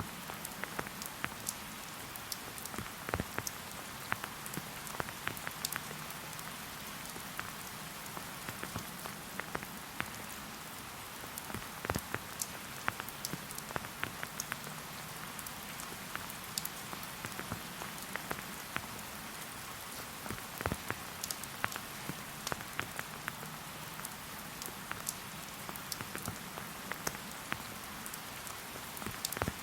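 Steady rain falling in a forest: an even hiss with scattered individual drops ticking sharply and irregularly throughout.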